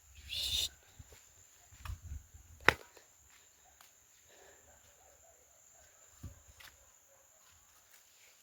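Crickets or similar insects singing as a steady high-pitched trill, with a few light knocks and rustles and one sharp click a little under three seconds in.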